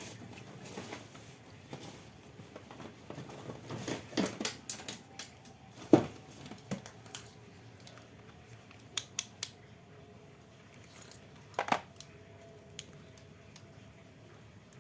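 Scattered clicks and knocks of small hard objects being handled, with the sharpest knock about six seconds in.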